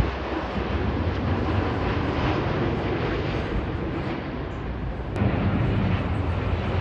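Jet airliner engine noise as an arriving aircraft passes, a steady loud rumble with a lift and dip in level about five seconds in.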